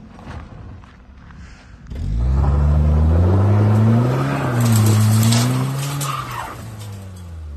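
A Ford Focus sedan's engine revs hard from about two seconds in while its wheels spin in loose dirt and gravel on a steep climb, with grit spraying. The revs rise, dip briefly and rise again, then fall away near the end.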